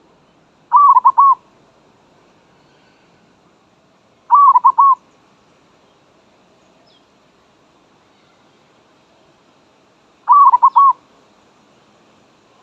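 Zebra dove calling: three short bursts of quick cooing notes, each about half a second long, with a longer gap before the last.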